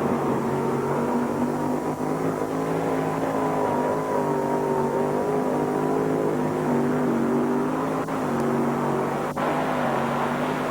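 Mini modified pulling tractor's engine running steadily at high revs under heavy load as it drags the weight-transfer sled down the track, its pitch wavering only slightly.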